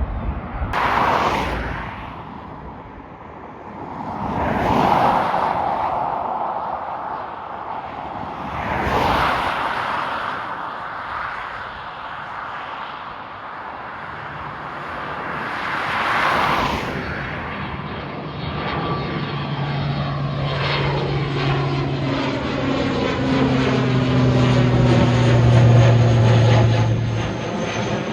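A few brief whooshing swells, then from about two-thirds of the way in an airplane approaches low overhead, its engine noise building to a loud drone with a steady low hum that dies away near the end.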